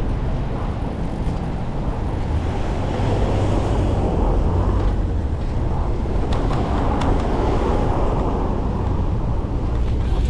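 Steady city traffic noise heard from a moving bicycle, with a strong low rumble that swells a little about three seconds in.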